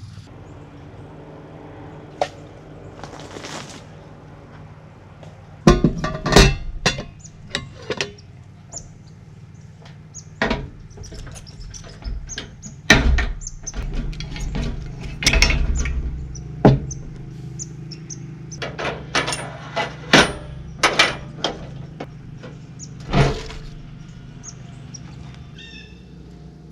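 A series of sharp knocks and clunks at irregular intervals, over a steady low hum.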